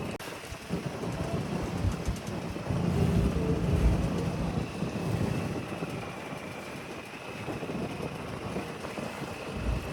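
Boat engine running steadily with a low rumble, which swells louder for a couple of seconds about a third of the way in, over a faint steady whine.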